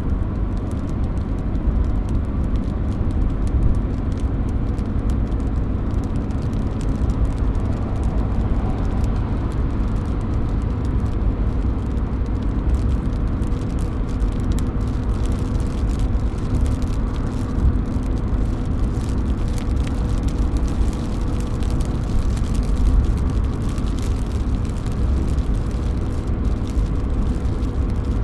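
Rain falling and dripping off a roof edge: a steady rush with many small drop ticks and a low rumble beneath it.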